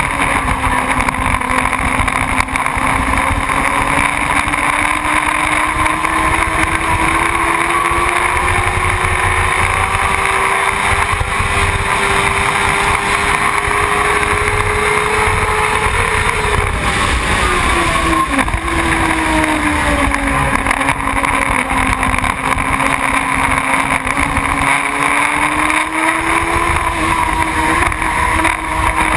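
Motorcycle engine running under way, with wind noise on the microphone; its pitch climbs slowly, drops sharply about seventeen seconds in, then climbs again.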